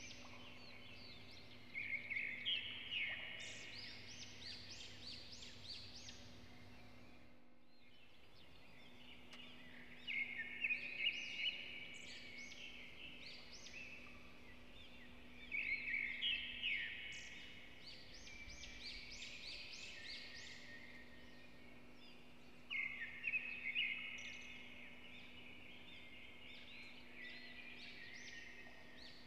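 A bird singing four short phrases of quick, falling notes, several seconds apart, over a faint steady hum.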